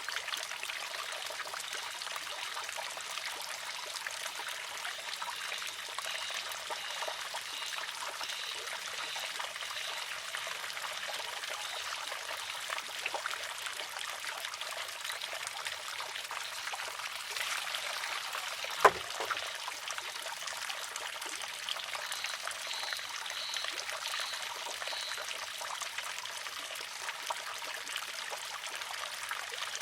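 Wooden shishi-odoshi run by water: a steady trickle of water pouring into and past it, and once, about two-thirds of the way through, the arm tips over and strikes its rock with a single sharp clack.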